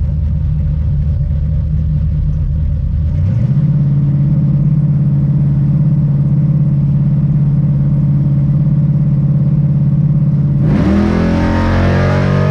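Plymouth Satellite's big-block V8 running loud and steady; its note steps up in pitch about three seconds in and then holds. Near the end, distorted guitar music comes in over it.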